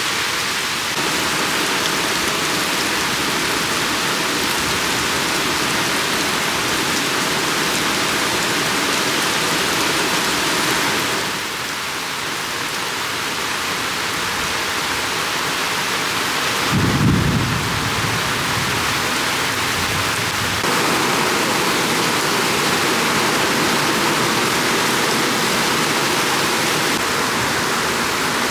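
Heavy rain pouring steadily, with a short low rumble of thunder about seventeen seconds in.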